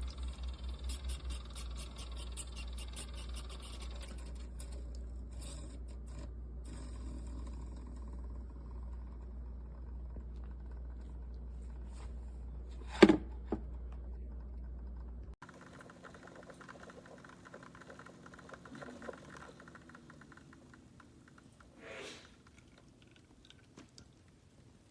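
Keurig K-Supreme Plus pod coffee maker brewing: a steady low hum with liquid pouring, a sharp click about 13 seconds in, and the hum cutting off suddenly a couple of seconds later.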